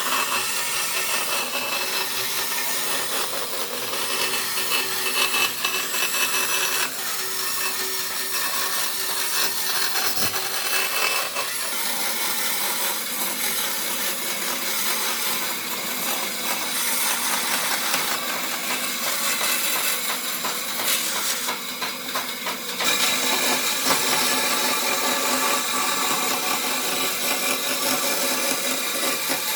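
A power tool working wood, running continuously with a gritty, hissing sound. Its sound shifts a few times, most clearly stepping up about 23 seconds in.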